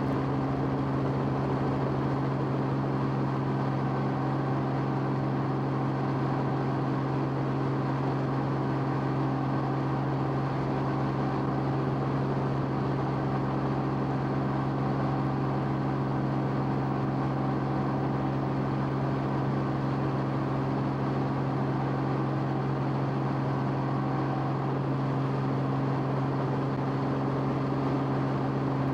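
Steady, unchanging engine drone of an aircraft, heard from inside the cabin, with a strong low hum and its overtones over a constant rushing noise.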